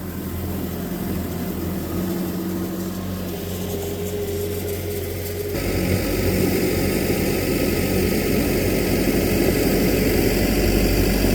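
A steady engine hum that gets louder and rougher about halfway through.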